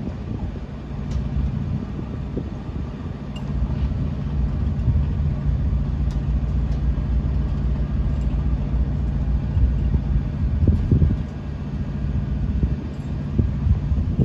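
Diesel locomotive engine running with a steady low drone, with a few low knocks about eleven seconds in.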